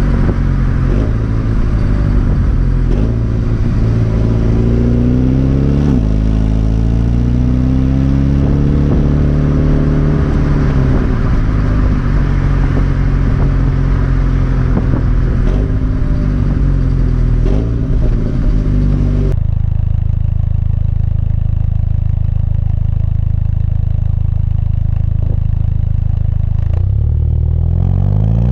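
MINI Cooper S F56's turbocharged 2.0-litre four-cylinder engine, heard through its exhaust, revving up and down several times. About two-thirds of the way in the sound cuts abruptly to a steady idle with a duller tone, and the revs climb again near the end.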